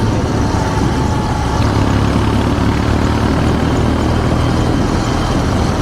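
Kawasaki W650's air-cooled parallel-twin engine running steadily through an R's Gear Wyvern Classic aftermarket muffler, a low, even exhaust note.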